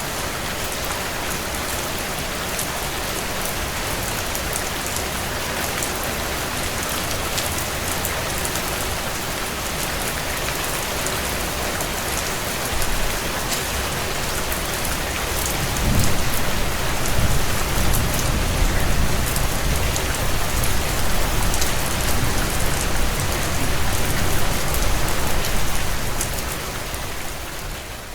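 Heavy rain drumming on a tin roof: a steady, dense hiss with fine, sharp drop ticks. About halfway through, a deep low rumble swells in under the rain and eases off near the end.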